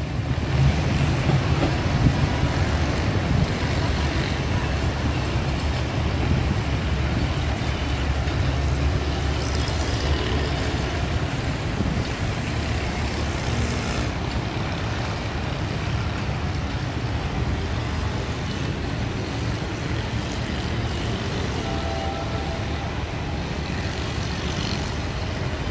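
Passenger train rolling away along the track, a steady low rumble that slowly fades.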